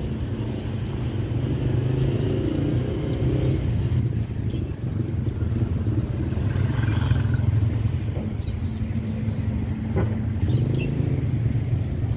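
Steady low rumble of motor vehicle traffic, with a single sharp click about ten seconds in.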